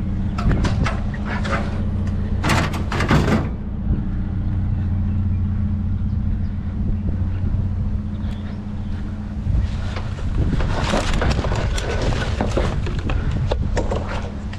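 Truck engine idling steadily, with two spells of rattling and scraping, one near the start and a longer one in the second half.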